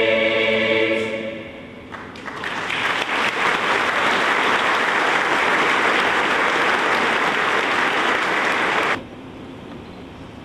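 A choir's final held chord ends in the first two seconds, then an audience applauds for about seven seconds, and the applause stops abruptly.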